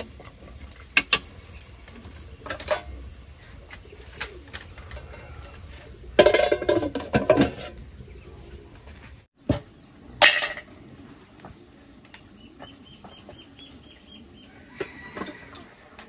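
Birds calling, including a quick run of short high chirps, among scattered knocks and clatter, with a louder burst of noise about six seconds in.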